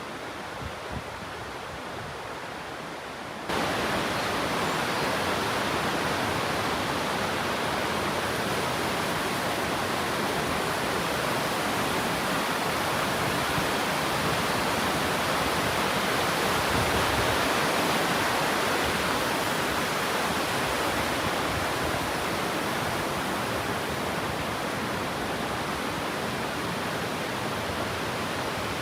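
Waterfall rushing in a steady, loud roar. It cuts in abruptly about three and a half seconds in, after a quieter stretch.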